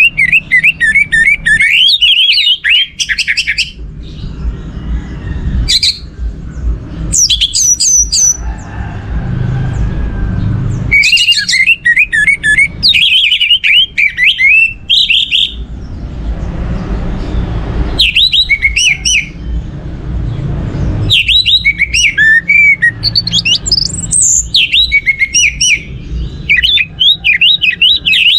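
Orange-headed thrush (anis merah) singing in loud bursts of fast, varied whistled phrases, each a few seconds long, with short pauses between them where a low rumble is heard.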